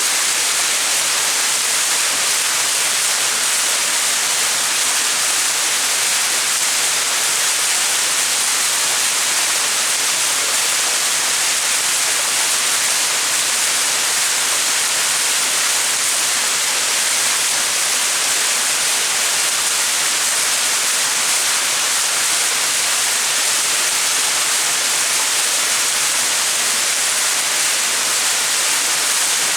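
Small mountain waterfall splashing into its pool: a steady, even rush of water.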